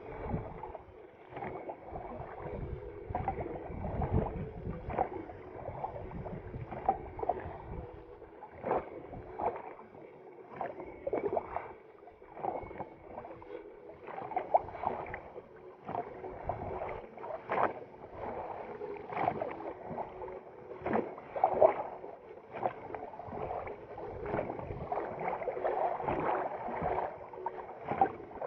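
Small boat moving on a river, with irregular splashes and light knocks from rowing.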